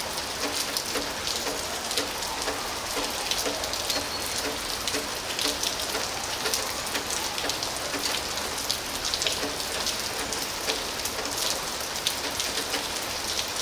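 Steady rain falling on wet concrete and ground, a constant hiss with many separate drops ticking through it.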